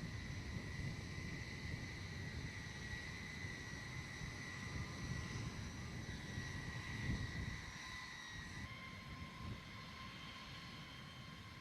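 Jet engine running, a steady high whine over a low rumble. The whine changes suddenly to a lower pitch about eight and a half seconds in.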